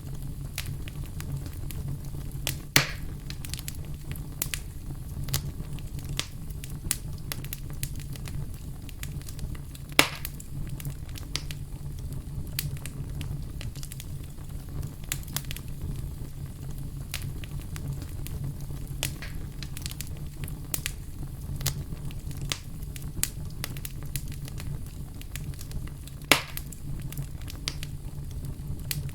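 Wood fire crackling: a steady low rumble with frequent small crackles and snaps, and three louder pops spread through.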